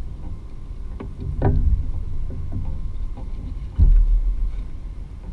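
Water sloshing and rumbling against a plastic fishing kayak's hull, with scattered small clicks and knocks. There is a sharper knock about one and a half seconds in and a heavy thump just before four seconds.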